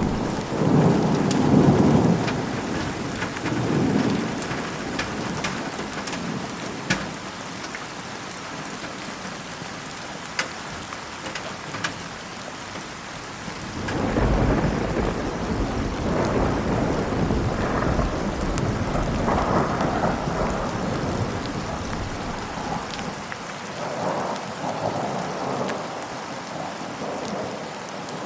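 Heavy rain falling steadily, with many sharp drop ticks. Rolling thunder rumbles at the start, and again in longer swells from about halfway through.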